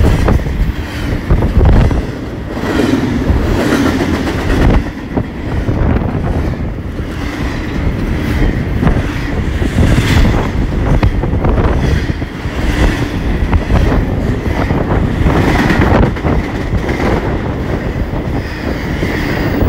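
Intermodal freight train's cars rolling past close by: a loud continuous rumble of wheels on rail, with irregular knocks and clatter from the wheels and couplings.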